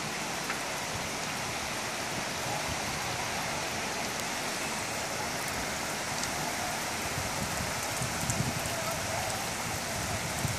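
Steady rain falling and pattering on surfaces, with a few soft low thumps near the end.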